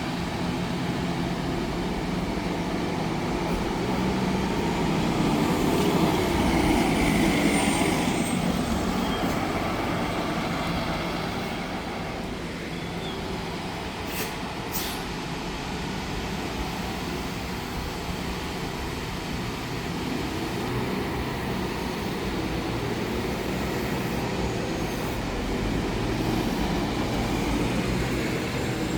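Heavy vehicles running steadily, with a motor's pitch rising and falling about six seconds in and again about twenty seconds in, and a brief high hiss or squeal about halfway through.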